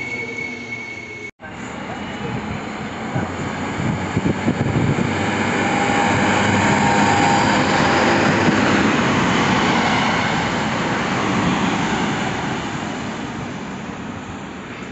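Regional diesel railcar passing close by, its engine and running noise swelling to a peak about halfway through and fading as it pulls away. In the first second, a high steady wheel squeal from a passing push-pull train cuts off abruptly.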